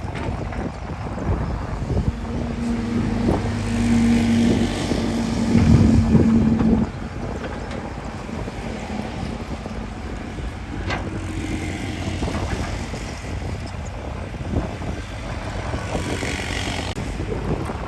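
Heavy earthmoving machine's diesel engine working under a rumble of machinery. The engine note comes up strong and steady for a few seconds, then drops back sharply about seven seconds in, and the low rumbling carries on.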